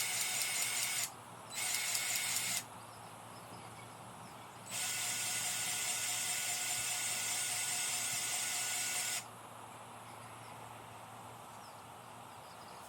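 Grease gun being worked on the baler's grease fittings, running in three spells: two of about a second near the start, then a longer one of about four and a half seconds. Each spell is a steady mechanical rattle with a whine, and it stops abruptly each time.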